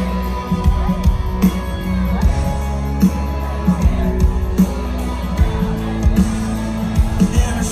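Live country rock band playing loudly on stage: electric guitars and bass over a steady drum beat, heard from the crowd.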